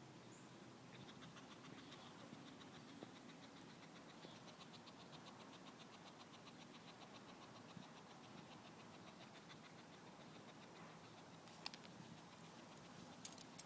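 Near silence: faint rapid ticking for several seconds, then a few sharp clicks near the end.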